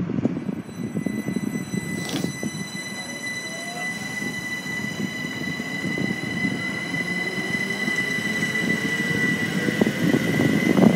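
Greater Anglia passenger multiple-unit train pulling out of the platform: a low rumble of wheels on rails, with a steady high whine that grows louder. A lower motor whine rises in pitch as the train gathers speed.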